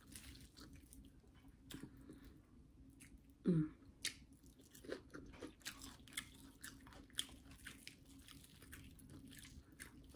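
A person chewing and biting into fried chicken and seafood, with many short wet mouth clicks and crunches scattered throughout. One short falling-pitched sound, the loudest moment, about three and a half seconds in.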